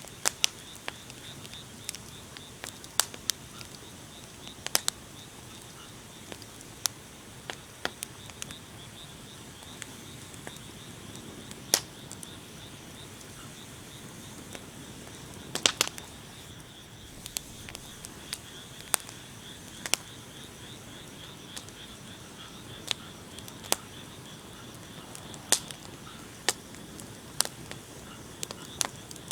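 Wood fire crackling: irregular sharp pops and snaps over a steady rushing of flames, with a short burst of several pops near the middle.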